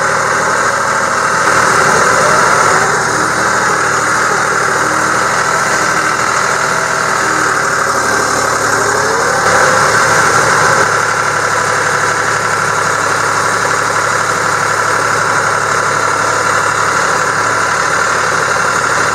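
A vehicle engine running steadily up close, swelling briefly twice.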